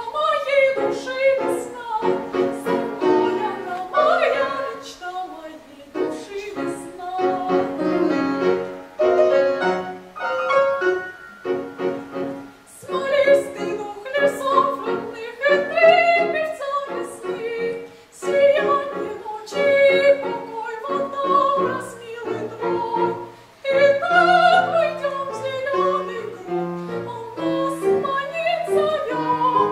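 A young female vocalist singing a classical art song in operatic style with vibrato, accompanied by a piano, in phrases separated by short breaths.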